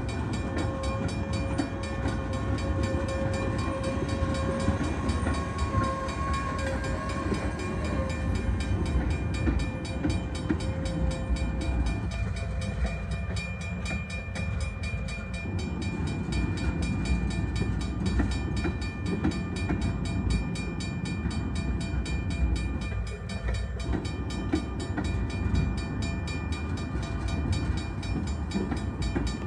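Freight cars, open hoppers and tank cars, rolling past on steel wheels: a steady low rumble and rattle on the rails. A steady whine rides over it for the first twelve seconds or so, then fades.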